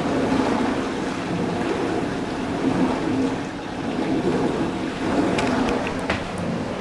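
Dishwasher running, very loud: water spraying inside the tub over a low, steady pump hum, rising and falling slightly.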